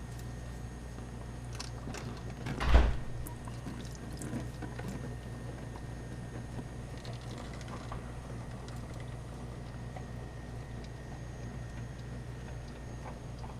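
A single loud thump about three seconds in and a few faint clicks, as an oil filter is worked loose with a filter wrench under a car, over a steady low hum.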